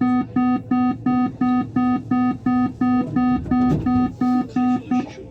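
Lyon Metro line B train's door-closing warning beeper: a loud, buzzy pitched beep repeating about three times a second, which warns that the doors are about to close, stopping just before the end.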